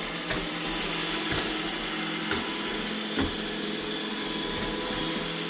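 iRobot Roomba E6 robot vacuum running steadily with its motor hum and several steady tones, with four light knocks about a second apart in the first three and a half seconds.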